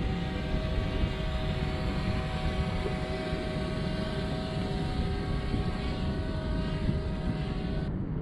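DJI Mini drone's propellers whining steadily close to the microphone, over low wind rumble; the whine cuts off near the end.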